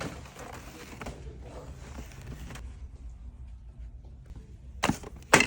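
An Xbox mini fridge being handled: faint creaks and rustling, then two sharp knocks near the end, the second louder, as from its door or body being moved.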